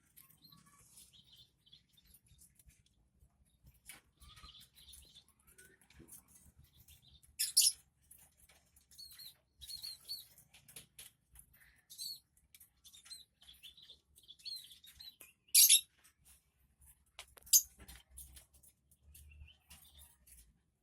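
Lovebirds moving about in a cage: scattered small clicks and scratches with short soft chirps, and a few louder sharp knocks.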